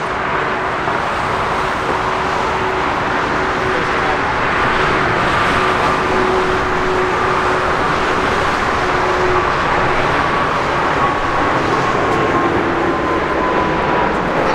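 Jet airliner engines running in a steady, loud roar, with a thin whine that slowly falls in pitch.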